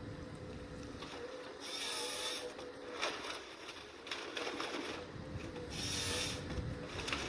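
Forestry machine working: mechanical clatter and clicking over a steady faint whine, with two bursts of hiss, about two seconds in and again about six seconds in.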